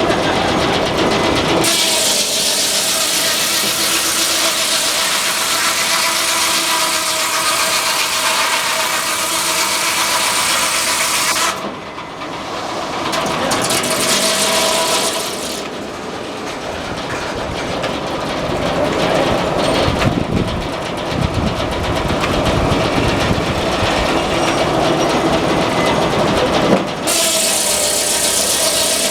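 Frick sawmill running: a loud, even rushing noise for about ten seconds, then a drop to a lower rumbling stretch of machinery, and the rushing noise again near the end.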